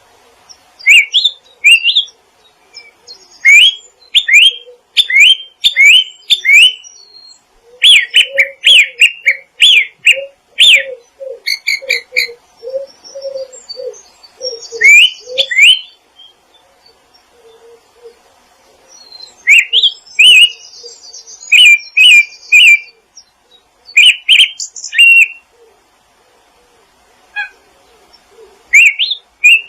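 Wild birds calling in bouts of rapid, short rising chirps, separated by pauses of a few seconds. From about 8 to 16 seconds in, a series of lower notes runs beneath the chirps.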